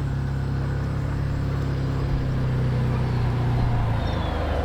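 A motor vehicle engine running steadily with a low hum, its pitch shifting about four seconds in.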